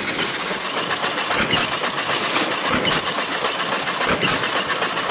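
Single-cylinder hit-and-miss engine running under light load with a fast, steady clatter. A stronger beat comes about every second and a half: the engine fires only every few revolutions to hold its speed and coasts in between.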